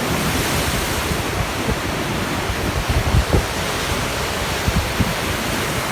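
Rough sea surf: waves rushing and breaking in a continuous wash of noise, with wind buffeting the microphone.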